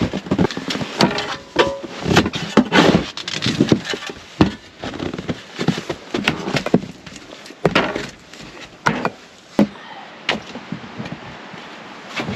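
A run of irregular knocks and clatters, close together in the first few seconds and then more spaced out.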